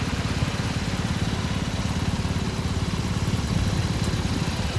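Motorcycle engine idling, a steady fast even pulsing.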